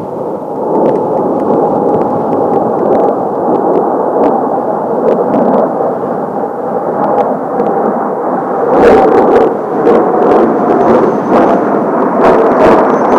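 Kawasaki T-4 jet trainers flying over: a continuous jet roar with a faint whine in it. It swells about half a second in and is loudest around nine seconds in. Strong wind gusts knock on the microphone, more often after nine seconds.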